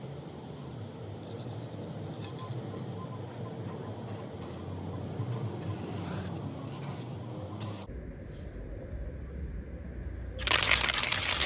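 Aerosol spray can of paint spraying in a loud hiss that starts near the end, after a stretch of low background noise with a few light clicks of handling.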